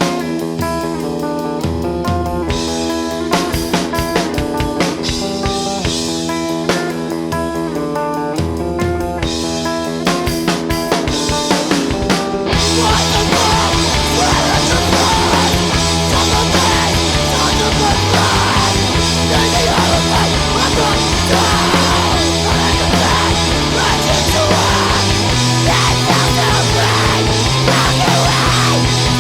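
Rock band music: guitar picking out notes over a drum kit, then at about twelve seconds the full band comes in louder and denser, with heavy guitars and steady drums.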